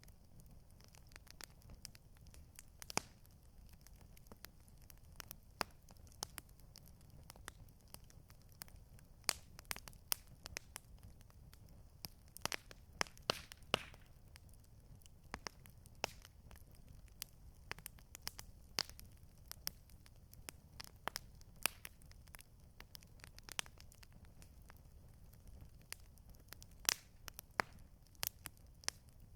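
Campfire crackling: irregular sharp pops and snaps of burning wood, thickest about halfway through, over a low steady rumble.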